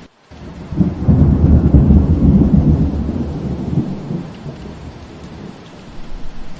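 Steady rain with a roll of thunder: a low rumble builds about a second in, swells for a couple of seconds and dies away, leaving the rain. The rain cuts out for a split second at the very start.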